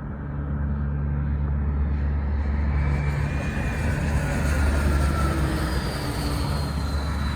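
Business jet turbofan engines: a rushing hiss that builds from about two seconds in over a steady low rumble, with a thin high whine that slowly falls in pitch.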